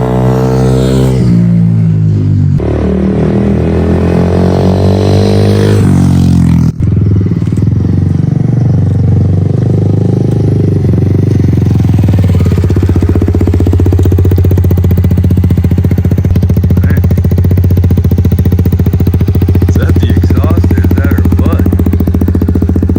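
Semi-automatic dirt bike engine ridden in third gear, revving up and easing off twice in the first several seconds, then running at a steady speed.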